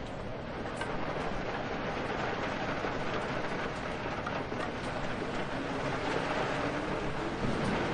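Steady rain with wind: a constant hiss of falling water with a low rumble beneath, building slightly in level, with a few sharper drops ticking through it.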